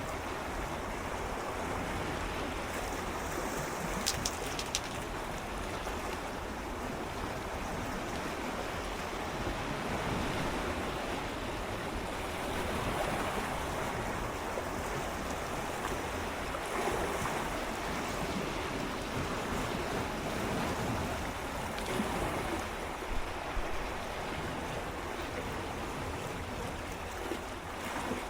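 Gentle sea waves swirling and lapping against shoreline rocks in a steady wash, swelling a little every few seconds, with a few small sharp splashes or clicks of water on rock.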